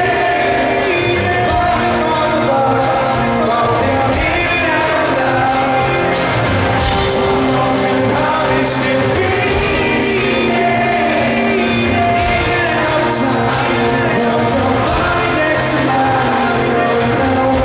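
Live rock band playing a song with a sung lead vocal, loud and steady, carrying the echo of a large concert hall.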